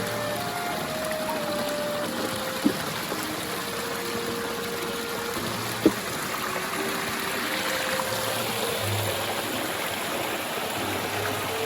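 Steady rush of flowing stream water under light background music of short stepped notes, with two sharp clicks about a third and halfway in.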